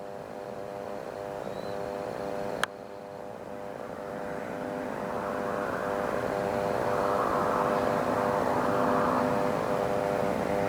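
Aircraft engine noise growing louder as a plane approaches: a steady multi-note hum under a rising rush of noise. A single sharp click about two and a half seconds in.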